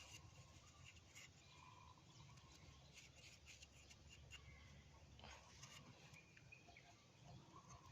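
Near silence, with faint scattered clicks and a few faint short chirping tones.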